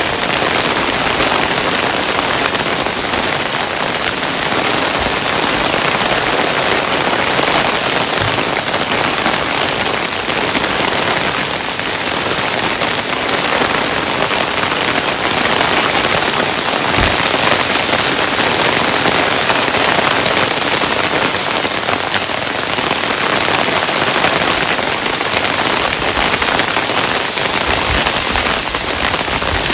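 Hailstones falling in a dense, steady patter of many small impacts. A few heavier low thuds stand out now and then.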